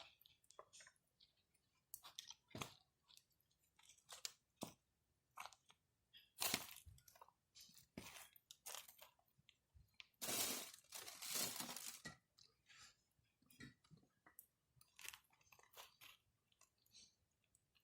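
Wood burning in a campfire, crackling and popping with irregular sharp snaps, and a denser two-second run of crackling about ten seconds in.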